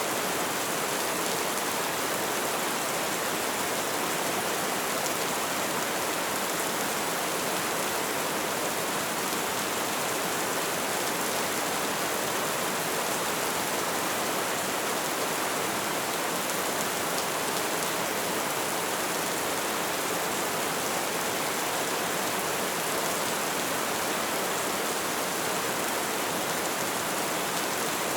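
Light rain falling steadily, an even hiss of drops with no let-up or change.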